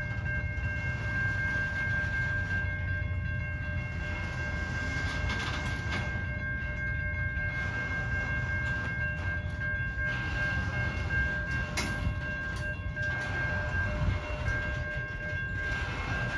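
Covered hopper cars of a frac-sand freight train rolling past: a steady low rumble of wheels on rail, with a continuous high-pitched squeal held over it.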